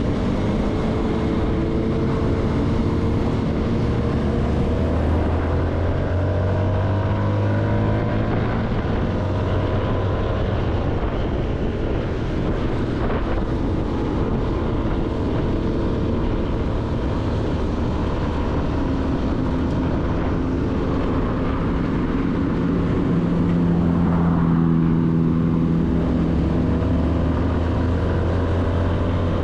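CFMoto motorcycle engine running under way. Its pitch rises several times as the bike accelerates through the gears, over steady wind and road noise.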